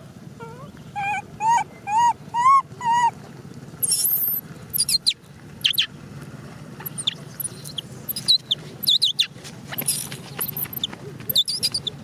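Young macaque crying: a quick series of about six short, arched whimpering calls, then scattered high-pitched squeals.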